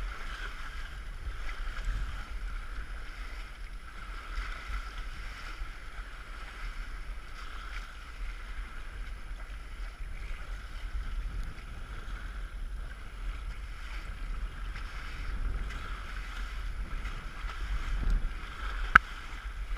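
Wind buffeting the microphone with a steady rush of water along the hull of a small sailboat under way. One sharp click near the end.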